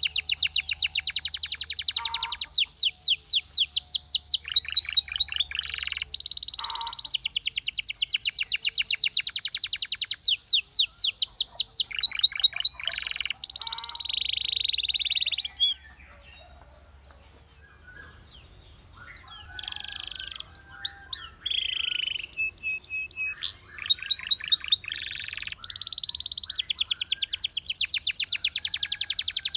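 Canary singing: long, rapid trills of fast repeated notes, broken by short pauses. After a break of about two seconds past the middle, the song resumes with a more varied run of whistles and trills.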